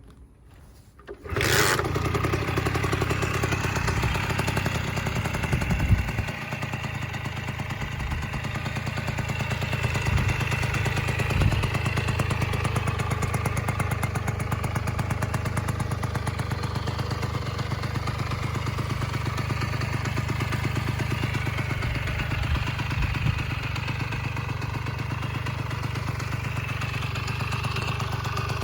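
Honda Racoon AD02's small engine starting about a second in, then running steadily at idle, with a brief dip about six seconds in.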